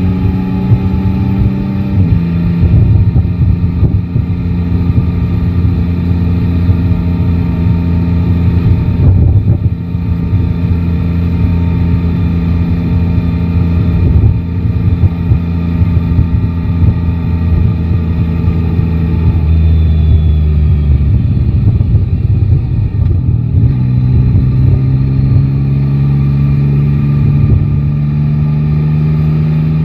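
Yamaha Tracer 9 GT's 890 cc three-cylinder engine running under way, its note stepping down about two seconds in and shifting again later in the ride, under heavy low wind buffeting on the microphone.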